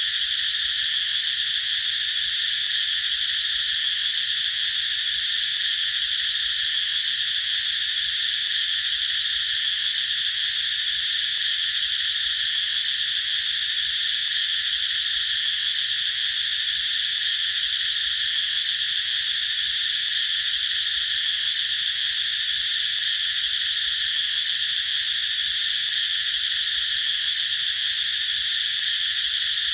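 Cicadas singing in a continuous chorus, a steady high-pitched buzzing drone that holds at an even level without a break.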